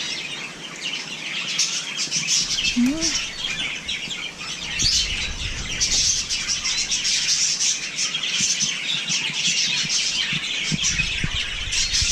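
Wild birds chirping and calling continuously, many short high-pitched calls overlapping.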